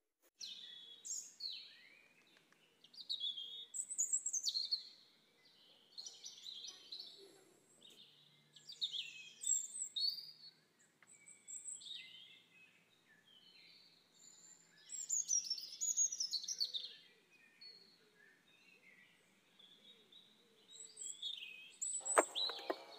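Songbirds singing in short chirping, warbling phrases that come every second or two. A single sharp knock near the end is the loudest sound.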